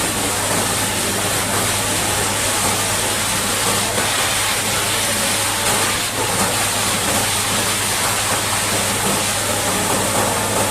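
High-pressure water jet spraying with a steady hiss, over a steady low hum.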